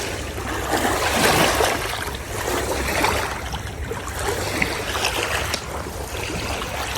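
Flowing river water rushing steadily, a continuous noise that swells and eases a little.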